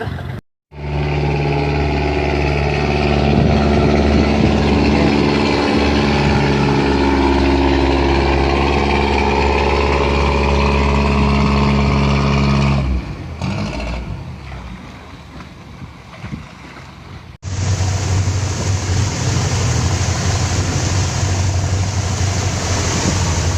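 A wooden motor boat's PS100 diesel engine running at a steady speed with an even, low drone. Partway through it drops much quieter, and after an abrupt cut the engine hum continues under wind and water noise.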